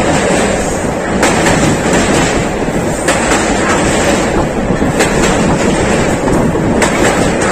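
Passenger train running, heard from on board: a steady loud rumble of wheels on the rails. A sharp clack comes about every two seconds as the wheels cross rail joints.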